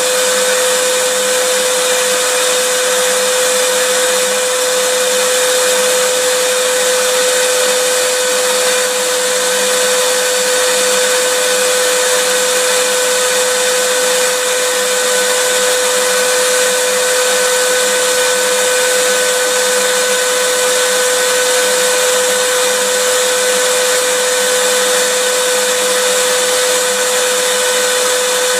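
Electric vacuum cleaner running steadily: a constant whine over a rushing hiss, with no change in speed.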